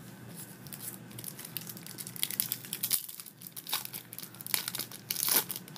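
Plastic-foil booster pack wrapper crinkling and tearing as a trading-card pack is ripped open, in a run of sharp crackles with louder bursts about two seconds in and near the end.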